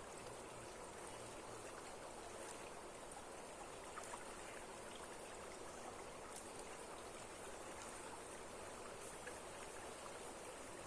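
Steady rushing of flowing water, as of a stream running over rocks.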